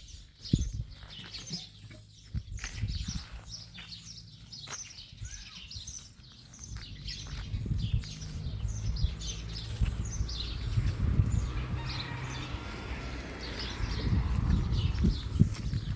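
Small birds chirping: many short, quick chirps repeating throughout, over a low rumble that grows louder about halfway through.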